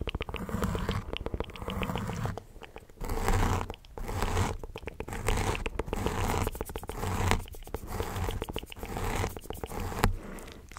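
ASMR mouth sounds close to the microphone: wet clicking, smacking and crackling in quick bursts, with short pauses between them.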